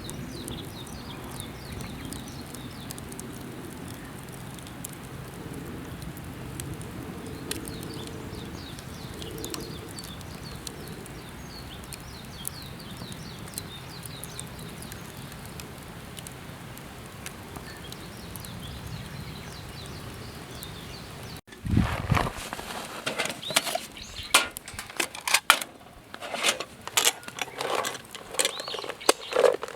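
Steady outdoor ambience with faint bird chirps over a low rumble. About two-thirds of the way in it cuts to close, irregular clicking and crinkling of something being handled.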